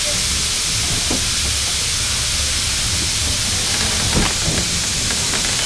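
Heritage steam train running: a steady loud hiss over a low rumble, with brief squeaks about a second in and again around four seconds.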